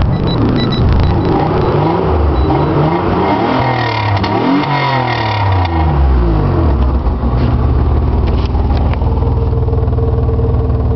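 1995 Mazda MPV engine running loud through a freshly welded homemade exhaust pipe. It is revved up and down several times in the first six seconds, then settles to a steady idle. The owner says there is still a bad exhaust leak somewhere.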